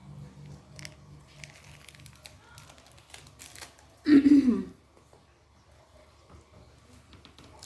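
Faint crinkling and rustling of parcel packaging being handled, with scattered light clicks. A short vocal sound comes about four seconds in.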